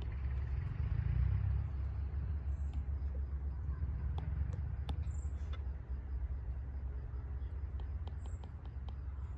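Outdoor ambience: a steady low rumble with a few brief high chirps and scattered faint ticks.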